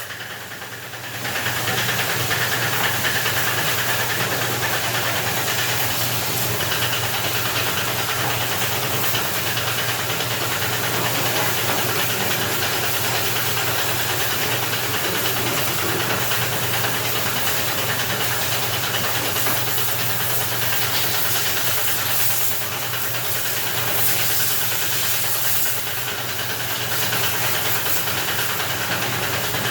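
A motor-driven machine running steadily with a loud hiss over a low hum, switched on right at the start and rising to full strength about a second in.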